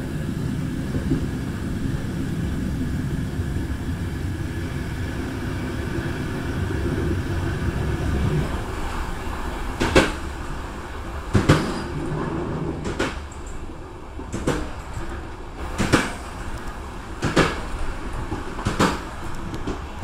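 A train running along the track with a steady low rumble. From about halfway, its wheels clack over the rail joints about every one and a half seconds.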